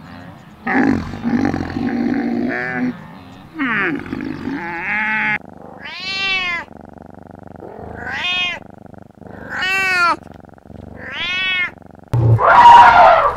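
Domestic cats meowing: four meows in the second half, each rising then falling in pitch, about a second and a half apart. Other animal sounds come in the first few seconds, and a loud, harsh, noisy sound near the end.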